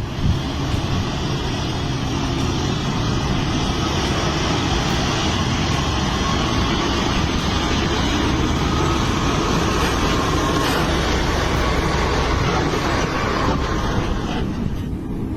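A heavy truck running, a steady engine rumble mixed with road noise. Near the end the higher hiss drops away.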